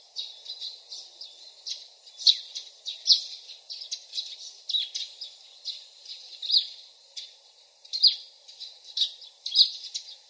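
Small birds chirping: short high chirps at an irregular pace of one or two a second, some sliding down in pitch, over a faint steady background hiss.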